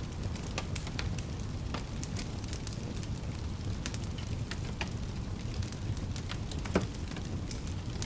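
Wood fire crackling in a fireplace: frequent sharp pops and snaps over a steady low rumble of the flames, with one louder pop near the end.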